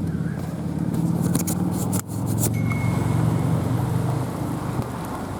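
Car running, heard from inside the cabin during a thunderstorm: a steady low engine and road rumble. Several sharp clicks and knocks come between about one and two and a half seconds in.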